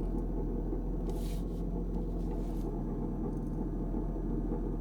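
2002 Kia Sedona's V6 engine running with a steady low growl from the belt-drive side, with brief hisses about one and two seconds in as the steering wheel is turned. Turning the wheel makes no difference to the growl, which the owner takes as a sign that the power steering pump is not the cause; he suspects an idler or tensioner pulley bearing.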